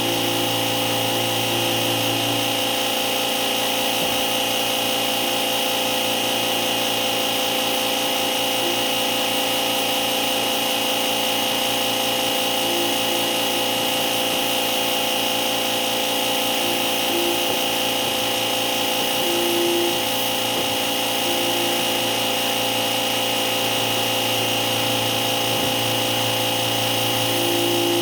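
An electric motor running steadily without a break, with a constant whine.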